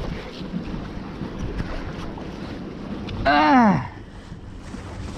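Wind rushing over the microphone with sea noise on the open deck of a ship. A little after three seconds in, a loud short pitched call rises slightly and then slides steeply down.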